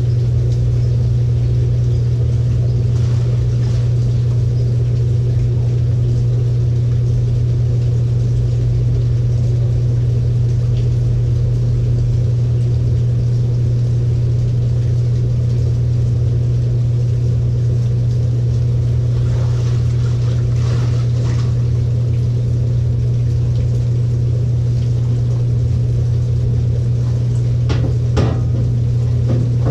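LG 18 kg top-load washing machine running a delicate cycle, giving a steady low hum. A few brief faint knocks or sloshes come about two-thirds of the way through and near the end.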